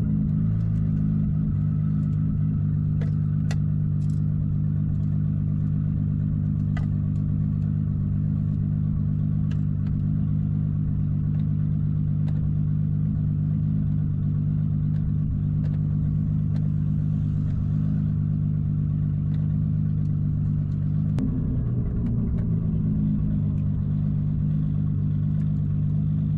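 Car engine running steadily at one unchanging speed, with scattered light clicks over it.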